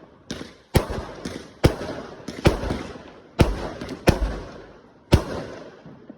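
Fireworks exploding overhead in a rapid run of about nine loud bangs, each one echoing away before the next. The bangs come roughly every half second to second, and the last one is near the end.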